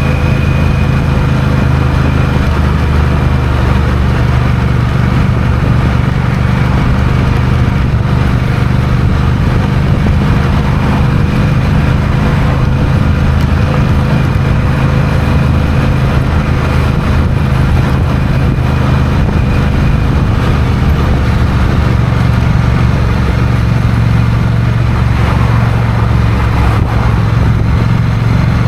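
Honda CMX1100 Rebel's parallel-twin engine running steadily under way at an even speed.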